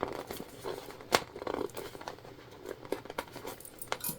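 Jelly vinyl bag pieces being handled and fitted together by hand, crinkling and rustling, with scattered sharp clicks; the sharpest is about a second in.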